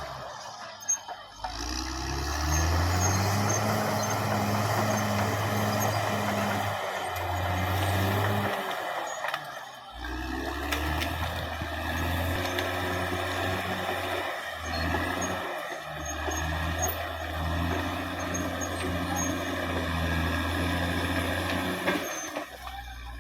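Caterpillar D6R XL bulldozer's diesel engine working under load, its pitch rising and falling as the throttle changes, with brief dips about a second in and twice more midway.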